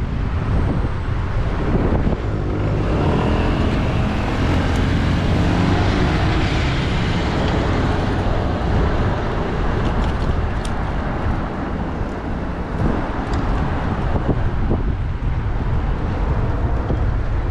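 Wind rumble on a bicycle-mounted action camera's microphone while riding along a city road with traffic. A motor vehicle passes a couple of seconds in, its engine note shifting in pitch as it goes by.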